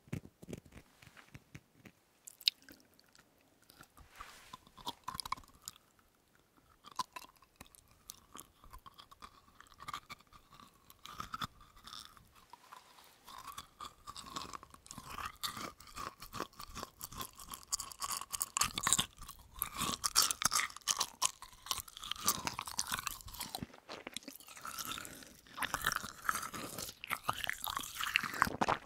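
Close-miked chewing of a sugar-beaded berry jelly candy: sticky, wet mouth sounds with a light crunch of the sugar granules. The chewing is sparse and quiet at first, then grows denser and louder from about halfway.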